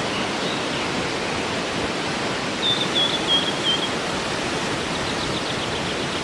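Steady rushing of a waterfall, with a bird singing a short run of about five chirps near the middle and a faint quick trill near the end.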